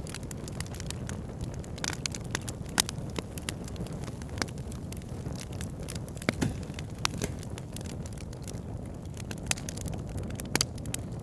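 Wood fire burning in a fireplace: a steady low rumble of flames with irregular crackles and sharp pops of the burning logs, a few pops standing out louder.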